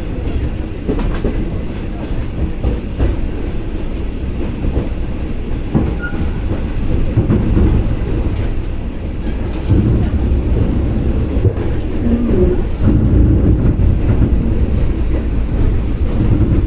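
Passenger train running on the rails: a steady low rumble of the wheels with clicks from the rail joints, growing louder about ten seconds in.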